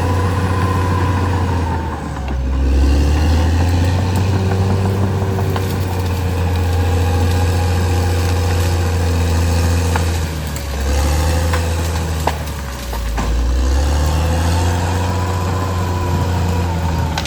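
Caterpillar D6R XL bulldozer's diesel engine running steadily under load. Its pitch sags and picks back up a few times, and there are a few short clanks, the sharpest about twelve seconds in.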